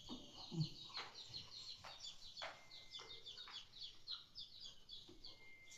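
Faint chirping of small birds: a rapid, continuous series of short high chirps, with a few faint clicks now and then.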